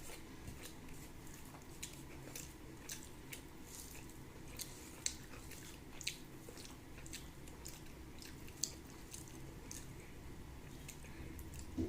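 A person chewing food close to the microphone: irregular short wet mouth clicks and smacks, one or two a second.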